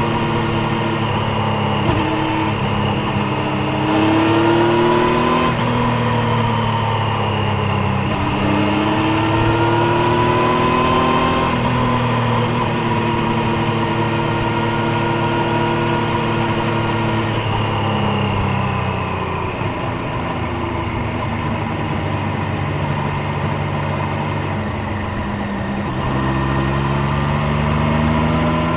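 Triumph Street Triple 765 Moto2 Edition's 765 cc inline-three engine and exhaust under way, the pitch rising in several pulls a few seconds long and falling back between them as the throttle is opened and closed.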